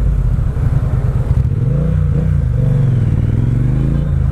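Motorcycle engine running on the move, its low note rising and falling with the throttle, with wind noise over the microphone.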